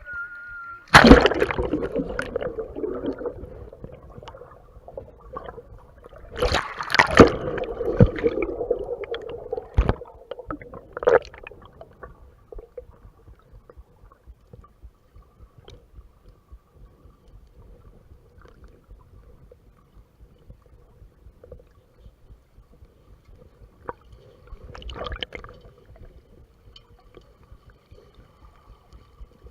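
Water splashing and sloshing against a GoPro's waterproof housing, muffled by the case, with several loud surges: one about a second in, a longer one around six to eight seconds, two short hits soon after, and another near the end, between quieter stretches of faint water noise.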